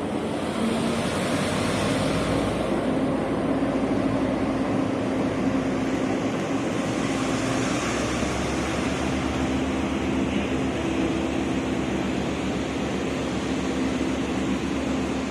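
Diesel locomotive of Taiwan Railways' Blue Train running: a steady engine drone with a low, even throb underneath.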